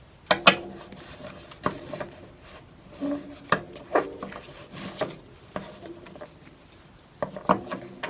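About ten light knocks and clinks of small hard objects being handled on a tabletop, several with a brief low ringing after them.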